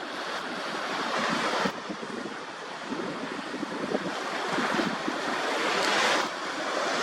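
Small waves of the incoming tide washing on the shore, the hiss swelling and falling back twice, with some wind on the microphone.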